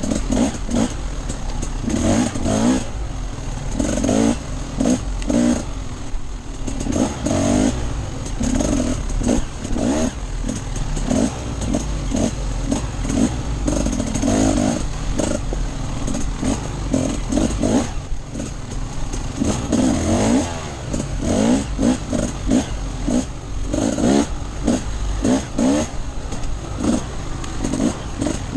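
Off-road dirt bike engine revving up and down again and again as the bike is ridden, blipping the throttle every second or two, with rattling knocks from the bike over rough ground.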